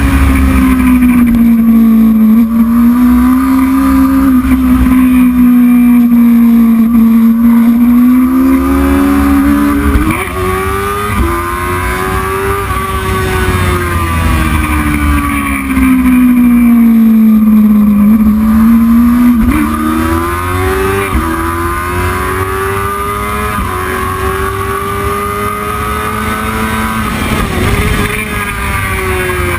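Racing motorcycle engine running hard, its pitch falling and rising with the throttle through the corners, with quick upshifts in pairs about a third of the way in and again about two thirds in.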